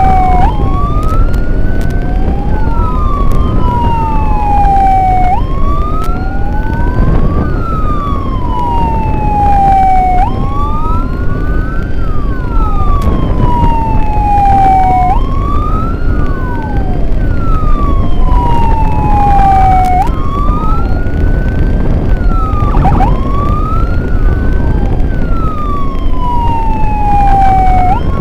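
Emergency sirens wailing in a repeating cycle over vehicle road and engine noise. One tone glides slowly down over about five seconds and then jumps back up, while a second tone rises quickly in the same cycle. These are the sirens of the ambulance and its escort.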